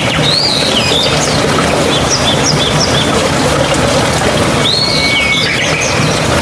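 Steady rush of running water, with a bird singing over it: a phrase of rising and falling whistles near the start, a quick run of chirps about two seconds in, and another whistled phrase about five seconds in.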